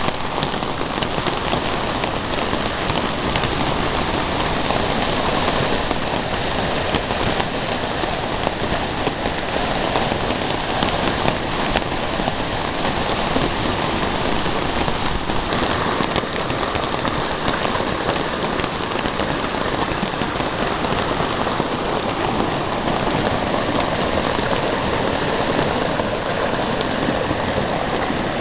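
Creek in flood rushing over and across the end of a driveway: a steady, unbroken rush of water.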